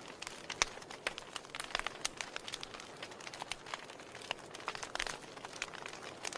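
Wood fire in a fireplace crackling: irregular sharp pops and snaps, several a second, over a soft hiss.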